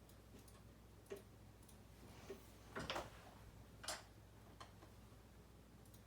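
A few soft, irregular clicks from someone working a computer, against near-silent room tone; the loudest come in a short cluster about three seconds in.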